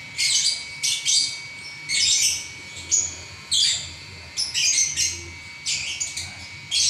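Lovebird singing nonstop: a rapid chattering string of high chirps and squeaks in short bursts, about two to three a second, with no pauses.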